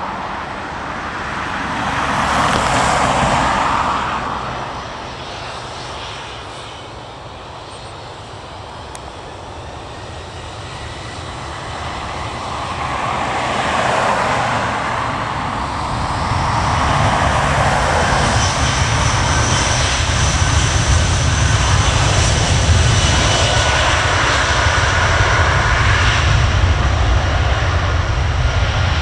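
Jet airliner engines: a rumble with a steady high whine that builds about halfway through and stays loud.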